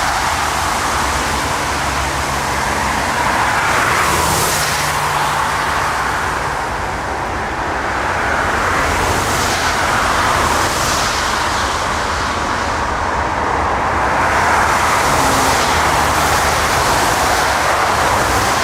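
Steady rushing noise of an Airbus A380's jet engines and airflow during landing, its hiss brightening and fading every few seconds.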